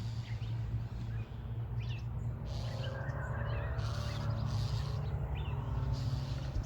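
Agitated songbirds giving repeated harsh scolding calls, about one a second, mixed with short chirps. This is alarm and mobbing at a predator, thought to be a weasel, in a nest with young. A steady low rumble runs underneath.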